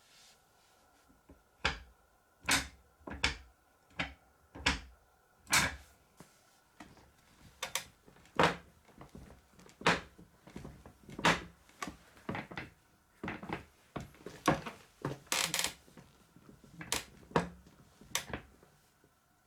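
Office chair creaking and squeaking again and again as it is moved or sat on, about twenty short irregular creaks: the noise the uploader puts down to the chair's failing gas cylinder.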